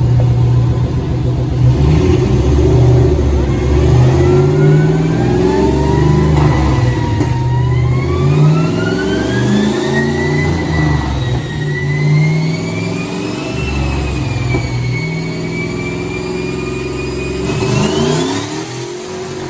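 Turbocharged 5.2 Magnum V8 in a Dodge Dakota running under load on a chassis dyno, with a high whine that climbs slowly in pitch through the run. Near the end the whine rises sharply, then the engine sound falls away.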